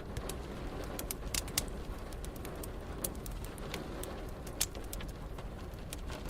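Wood fire crackling, with scattered sharp pops, the loudest about a second and a half, three and four and a half seconds in, over a steady hiss of rain and a low rumble.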